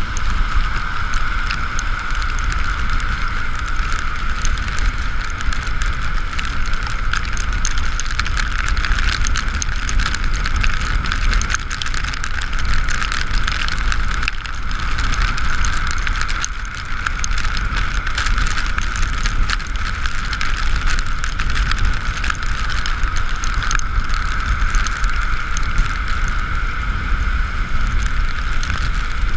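Ekoway ML5000 electric two-wheeler riding in the rain: steady wind and road rush with a constant whine, and scattered small ticks of rain, easing off briefly about halfway through.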